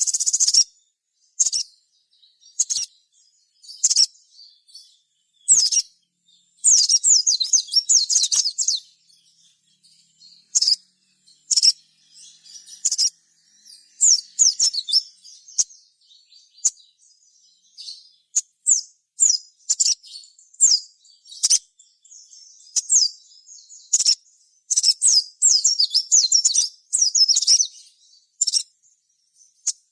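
Sogon (sogok ontong, a little spiderhunter) singing in full, busy song: rapid, high, chattering and twittering phrases of about half a second to two seconds, one after another with short pauses. This is the lively 'gacor' song that keepers play to provoke other sogon into answering.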